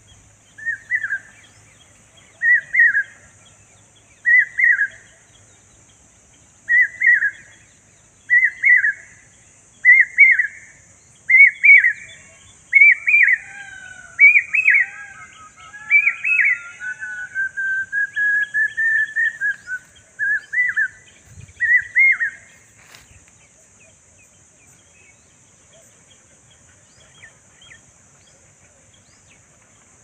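A bird in a tree calling over and over: short, clear notes repeated about every second and a half and coming closer together, with a longer wavering warble running beneath them for a few seconds past the middle. The calls stop about three-quarters of the way through.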